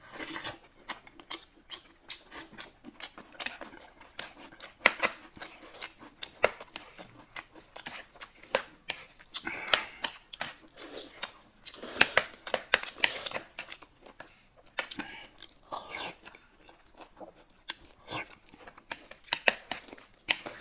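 People eating close to the microphone: wet chewing and lip-smacking in many short sharp clicks, with a few longer noisy stretches of noodles being slurped.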